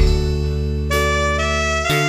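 Dangdut koplo music from an electronic keyboard (organ tunggal): a lead melody holding long notes over a sustained bass, opening on a drum hit and moving to a new note about a second in.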